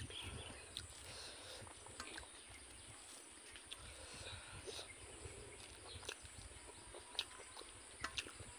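Faint chewing and wet mouth clicks of someone eating rice and pork blood sausage by hand, with a handful of sharper smacks scattered through, over a low steady background hum.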